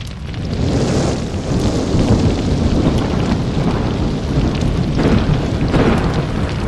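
Aircraft engine and airflow noise heard from inside the cabin: a steady, heavy rumble that fades in and holds.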